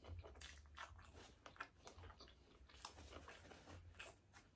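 Close-miked chewing of a mouthful of fast-food sandwich with the mouth closed: faint, irregular wet clicks and smacks over a steady low hum.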